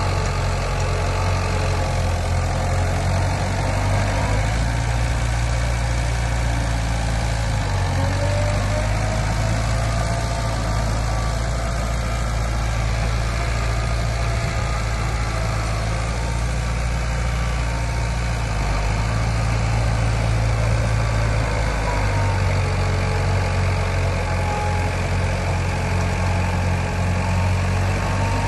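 Heavy diesel engine of earthmoving machinery running steadily, its low hum shifting a few times as the load or engine speed changes.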